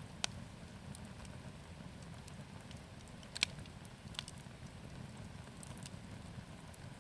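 Wood bonfire burning, a low steady rumble under scattered faint crackles, with three sharp pops: just after the start, about three and a half seconds in (the loudest), and shortly after that.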